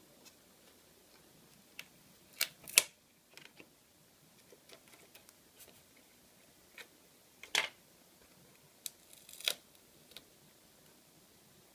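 Sparse sharp clicks and short scrapes of small repair tools and parts handled on an opened iPhone 5 during power-button flex cable disassembly. The loudest clicks come two to three seconds in, with a brief rasp about nine seconds in.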